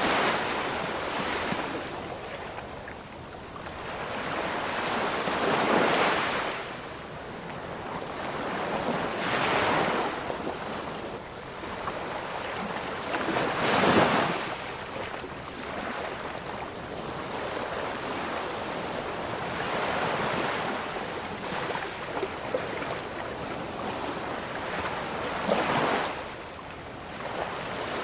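Ocean waves breaking and washing on a shore, a surge every three to four seconds, the strongest about halfway through.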